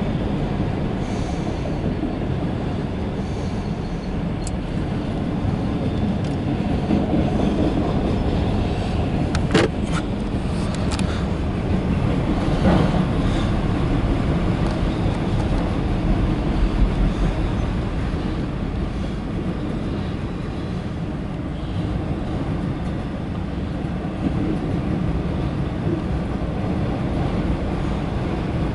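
Empty CSX autorack freight cars rolling past, a steady loud rumble and rattle of wheels on the rails, with a few sharp clicks near the middle.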